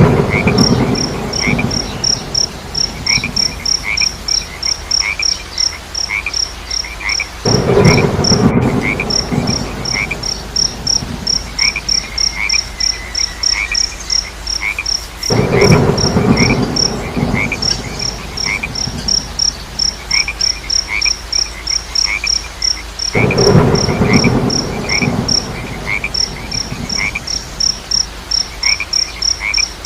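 Frogs croaking in bouts of a few seconds that recur about every eight seconds, over a steady high insect chirp pulsing about three or four times a second and a second, lower chirping call. There is a brief dropout about eight and a half seconds in.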